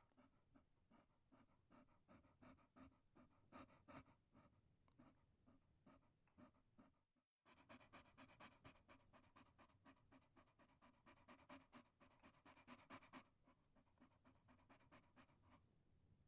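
Chihuahua panting in quick, even breaths, faint and close. The panting cuts out for a moment about seven seconds in, then comes back.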